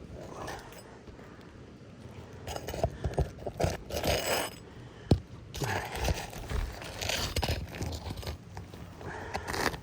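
Asphalt roof shingles being pried and scraped loose with a flat shingle tool: irregular gritty crunching and scraping, with a single sharp knock about five seconds in.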